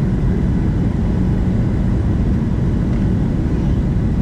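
Steady cabin noise inside a Boeing 737-700 airliner: a constant low rumble and rush of engine and airflow noise, with a faint steady whine.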